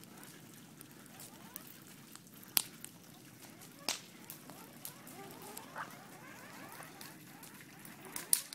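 Burning fire crackling, with three sharp loud pops and scattered smaller clicks. Around the middle a faint wavering whistle rises and falls.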